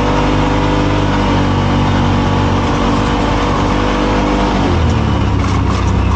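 Side-by-side UTV engine running under way over trail noise, its note dropping as the revs fall about four and a half seconds in.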